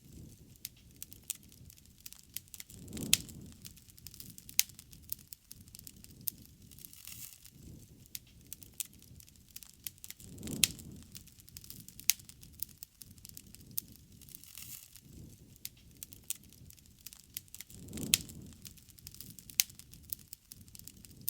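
Bonfire of burning wood crackling, with frequent sharp pops. A low rumble swells briefly about every seven to eight seconds.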